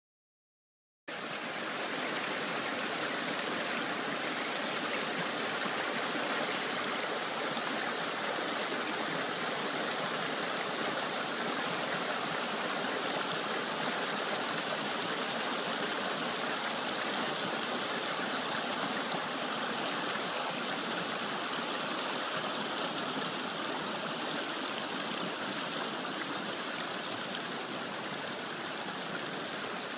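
Waterfall pouring in a steady rush of falling water, starting about a second in.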